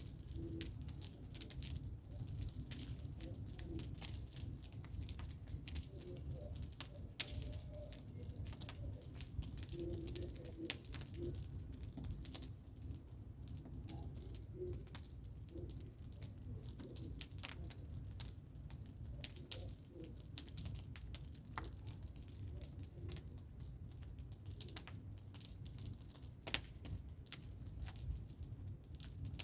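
Bonfire crackling: irregular sharp snaps and pops over a low rumble.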